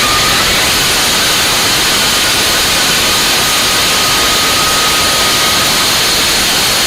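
Hybrid rocket engine firing: a loud, steady roar of exhaust noise that does not change.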